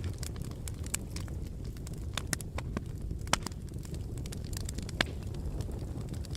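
Wood fire burning in a fireplace: a steady low rumble of flames with irregular sharp crackles and pops, two of them louder, about a third and three quarters of the way through.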